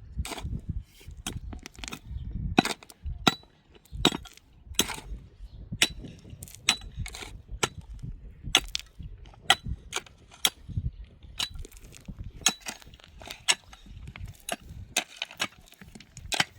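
Repeated sharp strikes of a tool on a hard material, irregular at about one or two a second, some with a brief high ring.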